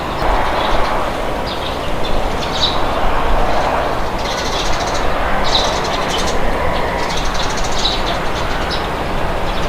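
Wind blowing in a steady deep rush, with small birds chirping in short high bursts throughout.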